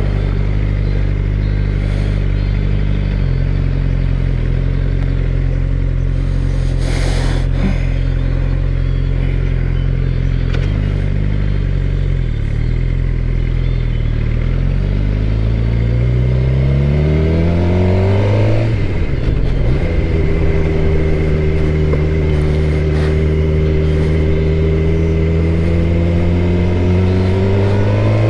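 2013 Suzuki GSX-R600's inline-four engine under way: a steady note at first, then revving up, dropping suddenly at an upshift about two-thirds through, and pulling again near the end.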